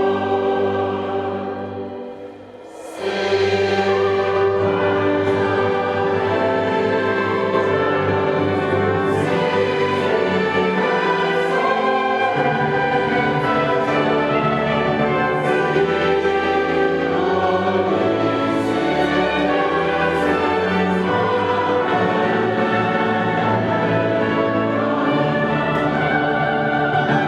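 Choir singing with orchestral accompaniment in sustained notes. The music fades away about two seconds in and comes back in full just after three seconds.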